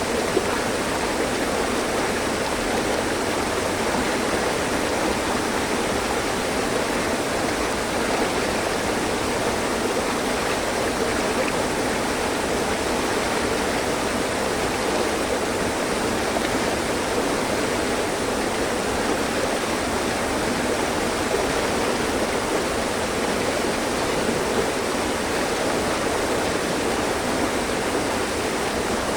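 Mountain stream flowing over rocks: a steady, even rushing and babbling of water.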